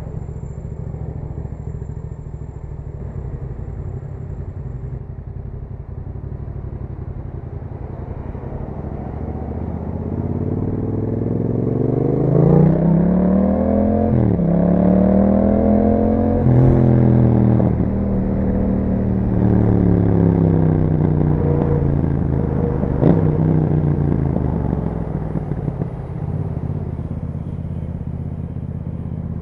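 2021 Yamaha MT-07's parallel-twin engine through an Akrapovic exhaust with the dB killer removed, ridden on the road. It runs low and steady, then about ten seconds in it accelerates with rising revs through a couple of quick upshifts. The revs then fall away as it slows, and it settles back to a low steady note.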